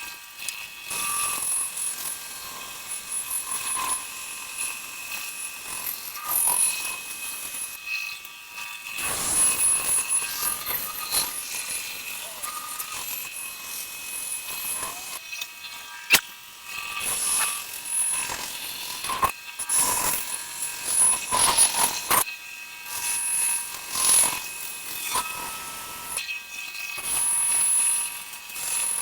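Power saw running with a whine that comes and goes, cutting wood in repeated passes of about a second each, with one sharp click about halfway through.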